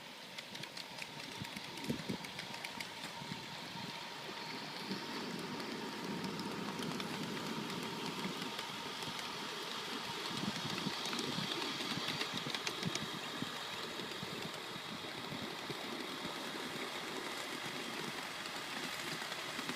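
Live-steam scale locomotive running, with a string of irregular light clicks and knocks over a steady hiss and a faint steady tone, growing somewhat louder toward the middle.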